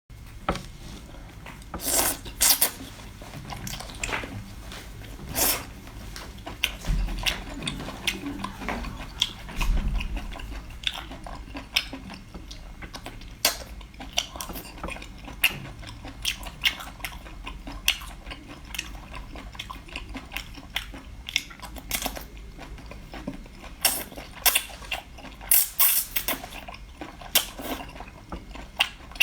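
Close-up eating sounds: chewing and biting, with many sharp, irregular clicks and smacks from the mouth.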